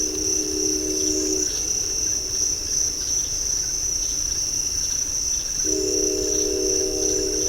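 Night insects, crickets, trilling in a steady high-pitched chorus. Under them is a steady low hum that stops about a second and a half in and comes back near the end.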